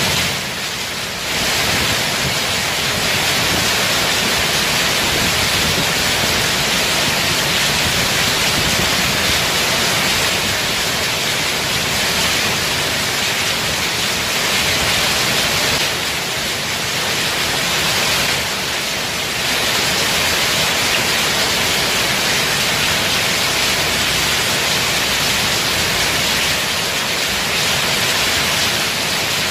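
Heavy rain pouring down in a steady, dense hiss. It eases briefly about a second in and again a little past the middle.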